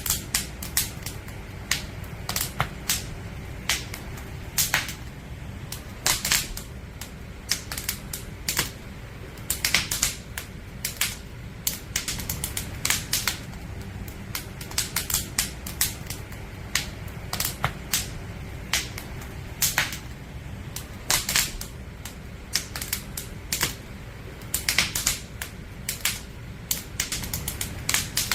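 Firewood crackling in a campfire: irregular sharp pops and snaps at uneven intervals, over a steady low rumble.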